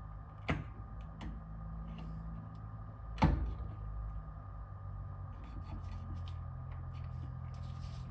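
A plastic coating bottle and mixing cup being handled as the bottle's lid is pierced: a sharp click about half a second in, a louder knock about three seconds in, and a few light clicks, over a steady low hum.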